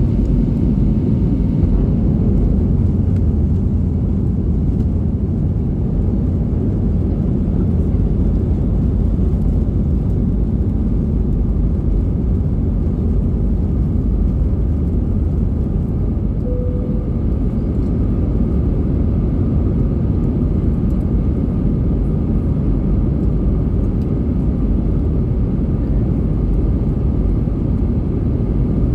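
Airbus A320 airliner, a steady low rumble of engine and airflow noise that holds even throughout.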